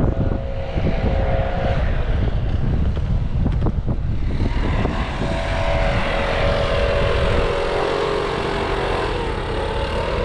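Wind buffeting the microphone in the open bed of a moving pickup truck, over the truck's engine and road noise. From about halfway through, a steady drone comes up and holds as the wind rumble eases.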